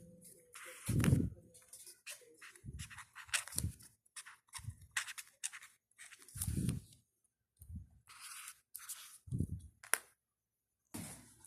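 Irregular scratching and rustling strokes with soft low thumps in between, the sound of small objects being handled close to the microphone.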